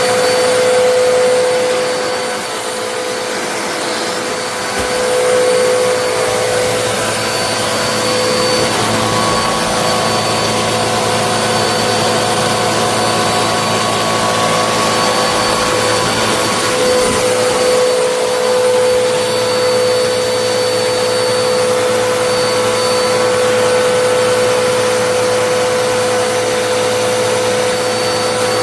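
Vacuum cleaner running at full power: a loud, steady motor whine with a constant hum over a broad rush of air.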